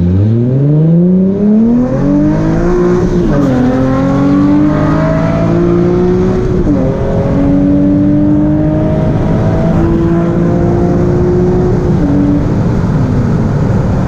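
Nissan 350Z VQ V6 with a Tomei exhaust accelerating hard through the gears. The engine note climbs steeply, drops at upshifts about three and a half and six and a half seconds in, climbs again, then falls away near the end.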